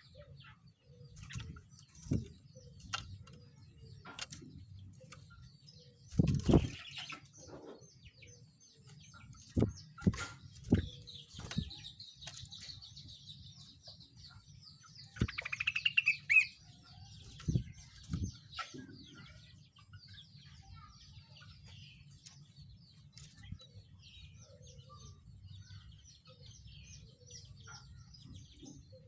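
A rengganis songbird moving about, with scattered thumps and wing flutters, faint twittering, and one short rising chirping phrase about halfway through that is the loudest sound. A steady thin high-pitched tone runs underneath.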